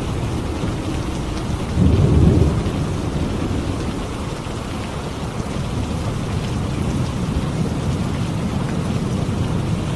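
Steady heavy rain in a thunderstorm, with a low rumble of thunder underneath and a louder thunder rumble about two seconds in.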